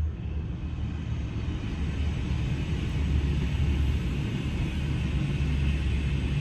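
A steady low rumble, swelling slightly over the first couple of seconds, with a faint hiss above it.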